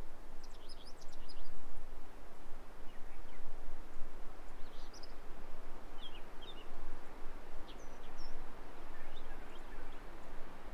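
Small birds giving short scattered chirps over a steady outdoor rushing noise.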